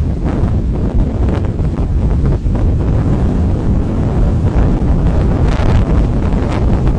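Strong wind buffeting the microphone: a loud, continuous low rumble that swells and dips unevenly with the gusts.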